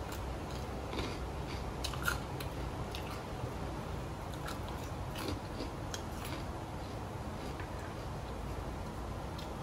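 Close-up eating sounds: a person biting and chewing food, with scattered small crunches and clicks that thin out in the last few seconds, over a steady low hum.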